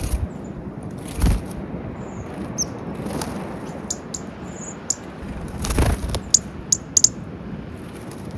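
Small birds at a peanut feeder: a few brief flutters of wings, short high chirps, and sharp clicks of pecking, the chirps and clicks coming thickest about two-thirds of the way through.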